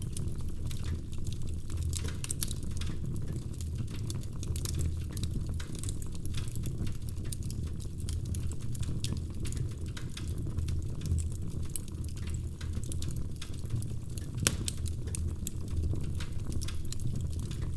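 Wood fire crackling in a fireplace: a steady low rumble of the burning fire with frequent small crackles and pops, one sharper pop about fourteen seconds in.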